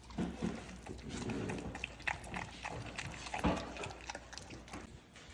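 Dogs eating a raw-food meal: irregular chewing and lapping with scattered clicks and knocks.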